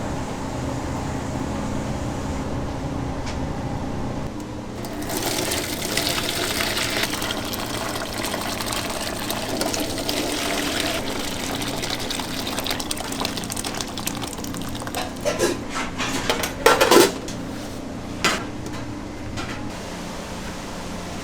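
A machine hums steadily, then water starts running into a kitchen sink with a hiss about five seconds in. A few sharp clattering knocks come near the end.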